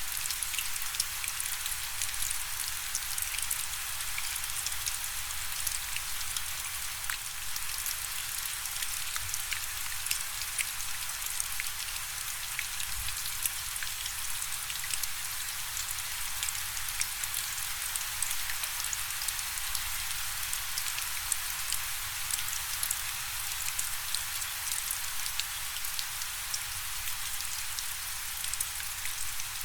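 Steady rainfall, a dense even hiss of many small drops pattering on a surface, without thunder or wind.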